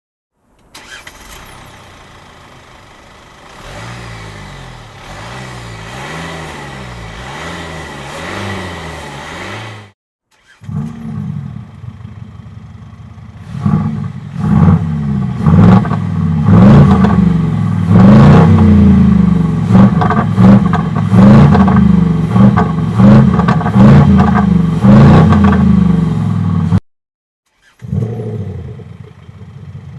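Mercedes-Benz W213 E-Class diesel with an Engine Vox active sound system: speakers under the rear bumper play a synthetic V8-style exhaust note over the diesel engine as it is revved again and again. A quieter stretch of wavering revs comes first and ends in a sudden cut. It is followed by a much louder run of repeated rev sweeps, which also cuts off shortly before the end.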